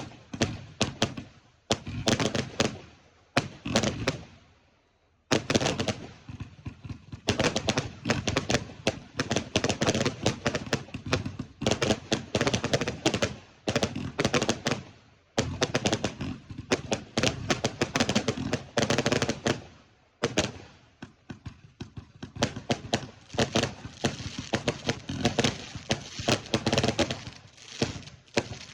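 Fireworks going off in rapid volleys of sharp bangs and crackling, with short lulls about five, fifteen and twenty seconds in.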